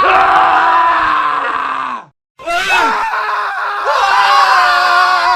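Men screaming in a montage of separate clips. One drawn-out scream falls in pitch and cuts off about two seconds in. After a brief silence a new scream starts, and several voices then overlap.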